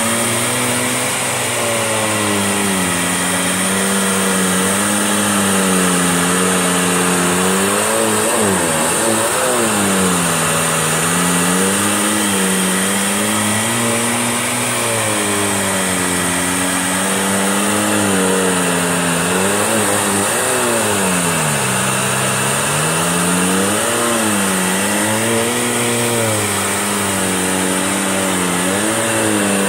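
Electrolux Turbo 2 Super vacuum cleaner running continuously as it is pushed and pulled in long, slow strokes over carpet. Its motor note dips and rises every couple of seconds with the strokes, over a steady rush of air.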